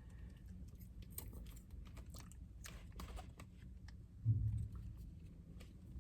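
Light clicks and taps of a plastic takeout bowl and its contents being handled, with a single low thump about four seconds in.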